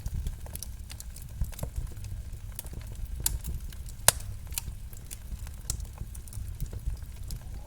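Wood fire crackling in a fireplace: scattered sharp pops and snaps over a low steady rumble. The loudest pop comes about four seconds in.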